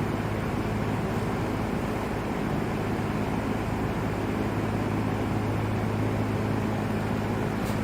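Vintage LAU Ultra Twenty 20-inch box fan running steadily: an even rush of air over a steady low motor hum.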